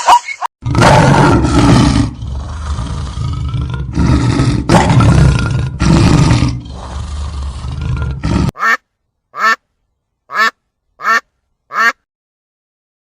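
Animal calls: a loud, rough, noisy call for about eight seconds, then five short pitched calls about two-thirds of a second apart.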